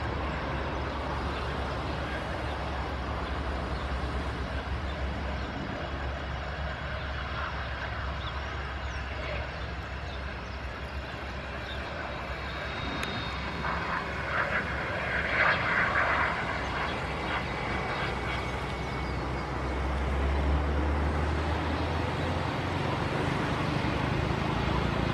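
Airbus A319 jet engines running steadily at low taxi power, a continuous rumble and hiss. About fifteen seconds in, a louder crackling patch rises over it for a couple of seconds.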